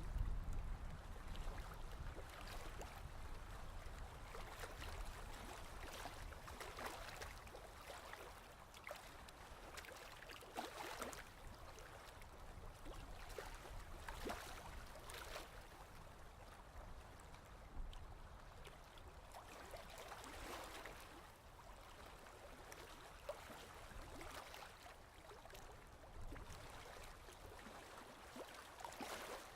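Ocean waves washing in, a faint rushing that swells and eases again and again, with a low rumble strongest in the first few seconds.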